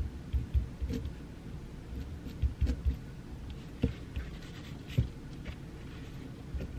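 Pencil writing on paper at a desk, with faint scratching and soft, irregular thumps and taps against the desk.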